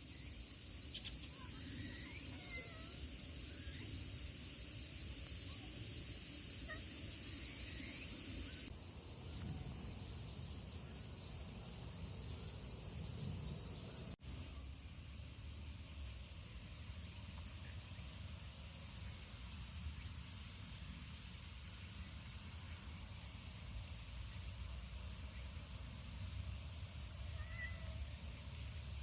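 Steady, high-pitched chorus of insects, with a few faint short chirps and a low rumble underneath. The chorus drops abruptly in level about nine seconds in and again about five seconds later.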